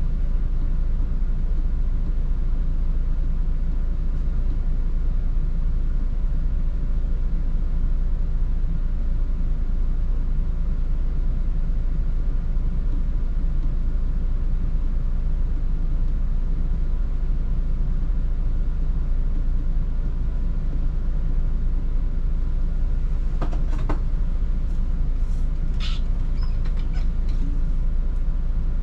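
Volvo 8900 bus on the move, heard from inside: a steady low drone of engine and road noise, with a few brief high-pitched squeaks near the end.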